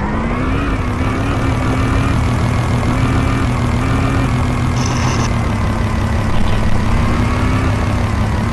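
Motocross dirt bike engine running at a steady pitch, with small rises and falls in engine speed.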